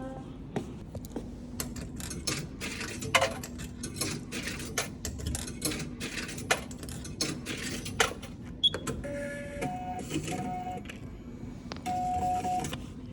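Irregular clicks and knocks of hard objects being handled, with a few short electronic-sounding tones near the end over a faint steady hum.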